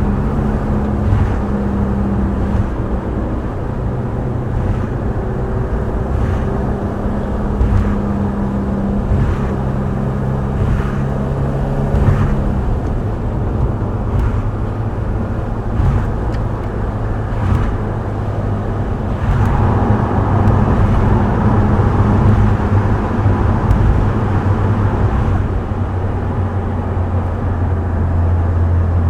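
Subaru WRX STI Spec C's turbocharged flat-four, breathing through an A-RM aftermarket exhaust, droning steadily at cruise on an expressway, over tyre and road noise. The engine note drops to a lower pitch about twelve seconds in. The road noise grows louder around twenty seconds in, with faint short knocks every second or two.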